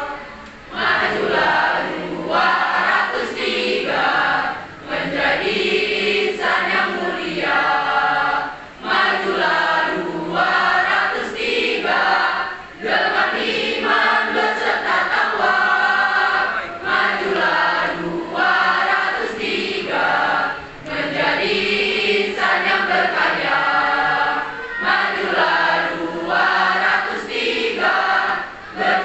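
A school choir singing the school's march song, phrase after phrase with brief breaks between them.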